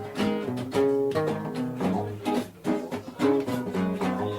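Background music: acoustic guitar, plucked and strummed, with notes struck regularly.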